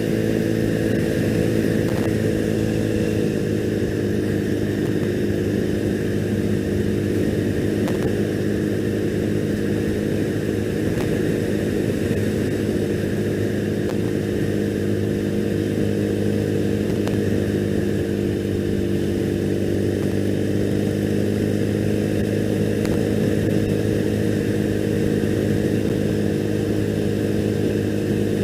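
2001 Triumph Bonneville's 790 cc parallel-twin engine running at a steady cruise, its pitch holding nearly even as the bike rides along.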